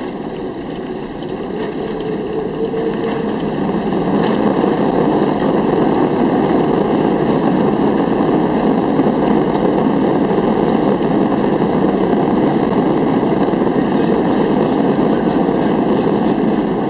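Steady roar of an Airbus A330-300's engines and rushing air heard from inside the cabin during the landing, swelling louder about four seconds in.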